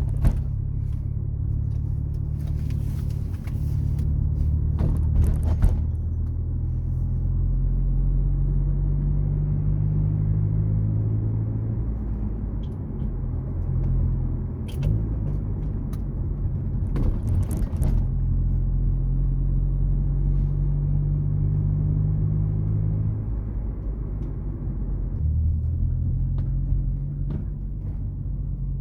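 Car engine running and road rumble while driving: a steady low rumble whose engine note shifts up and down several times, with a few light clicks.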